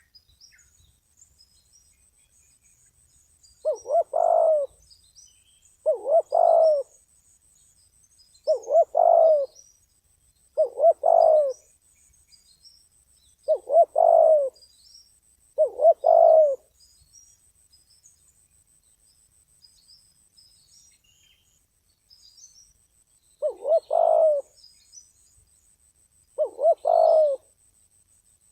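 Spotted dove cooing: eight short phrases, each a quick note run into a longer one, coming every two to three seconds with a longer pause in the middle.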